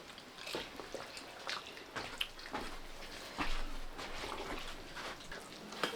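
Faint, scattered clicks and taps of people eating a meal, with plates and utensils knocking now and then.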